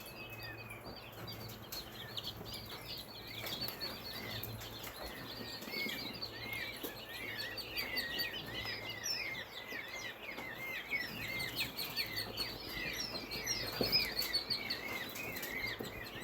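Many newly hatched chicks peeping at once, a dense run of short high cheeps overlapping without pause. A single knock sounds near the end.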